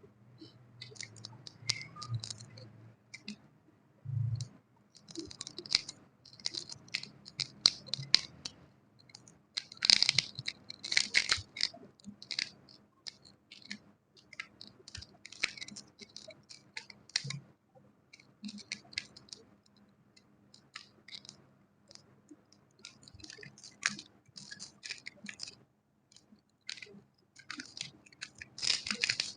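Close, irregular crisp scratching and clicking in clusters, ASMR-style, with brief pauses and a faint low hum underneath.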